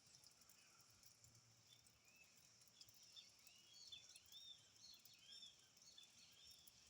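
Faint birdsong: many short, arched chirps and calls, growing busier about halfway through, over a steady high hiss.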